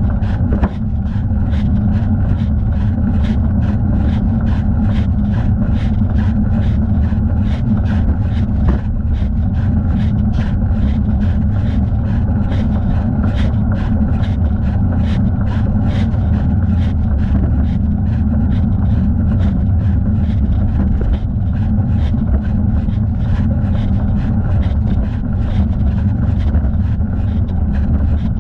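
Wind rumble on a thigh-mounted camera's microphone while cycling, with a regular light ticking about twice a second from the moving bike and camera mount.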